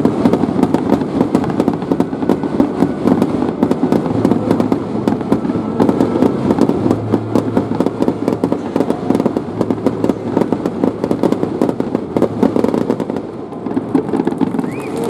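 Fireworks crackling in a dense, rapid barrage of pops, easing slightly about thirteen seconds in.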